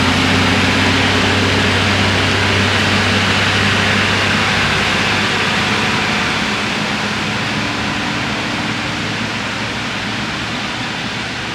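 Heavy lorry's diesel engine pulling steadily in first gear, a low drone under a wide hiss, slowly growing fainter.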